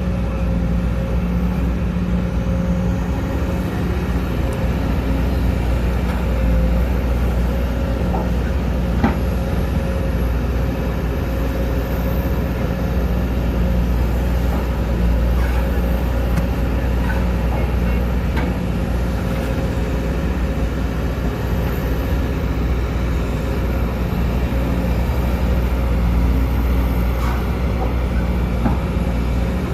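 Sumitomo SH210 hydraulic excavator's diesel engine running steadily while it works, with a constant higher whine over the low engine drone and a few short knocks.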